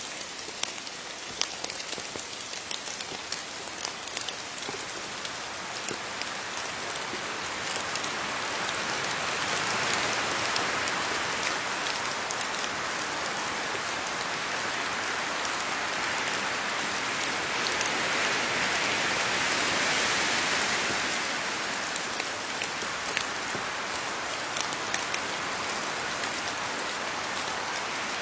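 Steady rain falling on leaves, a dense patter with scattered sharper drop ticks, swelling twice in intensity before easing off.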